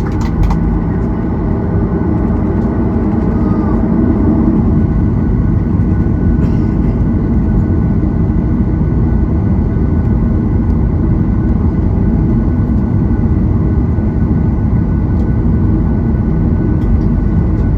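Boeing 737-800's CFM56-7B jet engines running steadily, heard inside the passenger cabin: a deep, even rumble with a faint steady whine above it.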